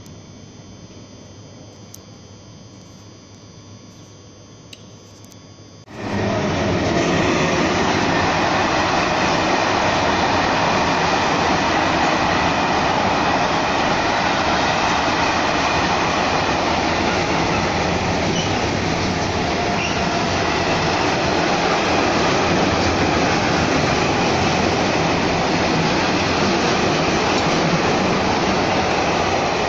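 A train passing close by, loud and steady, its wheels running on the rails. It cuts in abruptly about six seconds in, after faint background noise.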